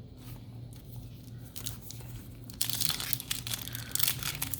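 Foil booster-pack wrapper crinkling and tearing as it is handled and ripped open, starting a little past halfway with a dense crackle after a quiet first half.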